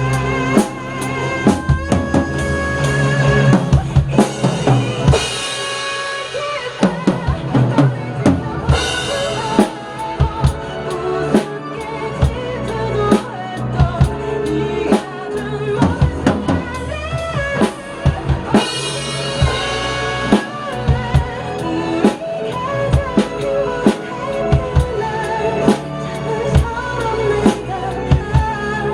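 A live drum kit is played along to a recorded pop ballad: kick and snare strokes over the song, with cymbal crashes washing over it three times. It is the song's climax and build toward the ending.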